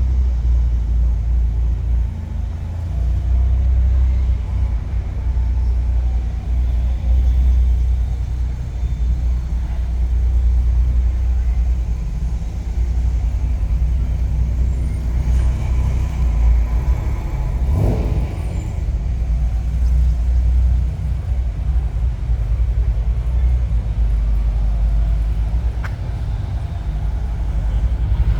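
Car engine running with a steady low rumble, and one short, sharper noise about two-thirds of the way through.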